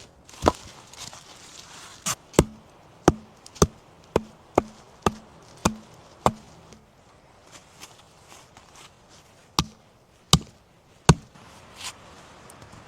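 A tool chopping wood: a run of about ten sharp strikes at roughly two a second, then after a pause four more, some leaving a short low ring.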